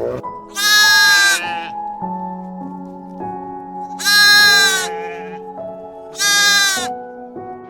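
A goat bleating three times, each call just under a second long, over background music.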